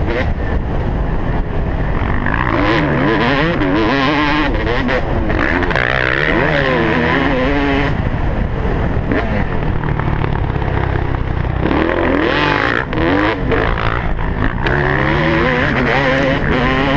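Motocross bike engine revving hard, its pitch climbing and dropping again and again as the rider works the throttle and gears.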